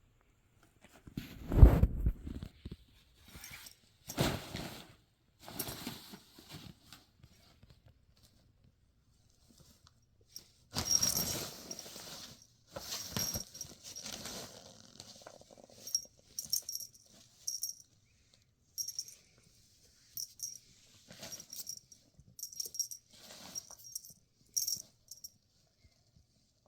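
Intermittent small metallic jingling with rustling and light knocks, coming in short bursts.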